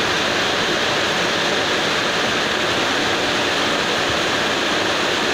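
Heavy rain falling in a steady downpour, an even hiss with no thunderclap.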